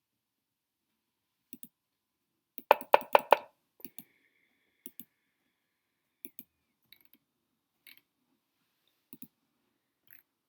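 Computer mouse clicking, mostly in quick pairs, scattered about once a second. A fast run of five louder, sharper clicks comes about three seconds in.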